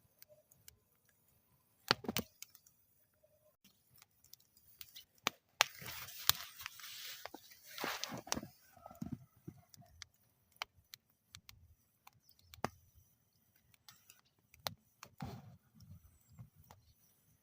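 Wood fire crackling in a metal fire bowl: irregular sharp pops and snaps, with a stretch of hissing about six seconds in that lasts a couple of seconds.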